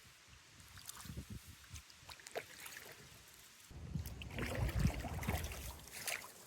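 Kayak paddling: water splashing and dripping off the paddle blades with a few light knocks, getting louder a little past halfway through.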